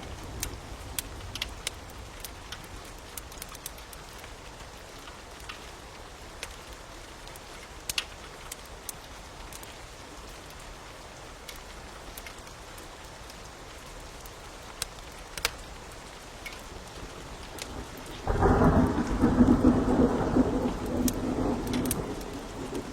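Steady rain with scattered sharp pops and crackles from a fire, then a loud rumble of thunder about eighteen seconds in that rolls on for several seconds.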